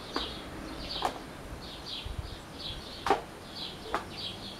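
Birds chirping in a steady run of short, high chirps, about two or three a second, with four sharp clicks scattered through, the loudest about three seconds in.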